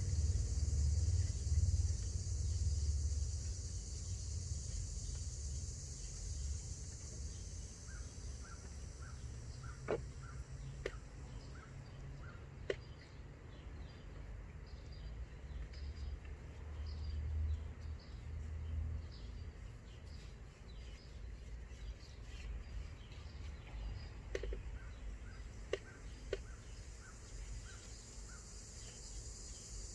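Outdoor ambience: a low rumble that fades over the first few seconds, with a bird calling runs of short, evenly repeated notes and a few faint clicks.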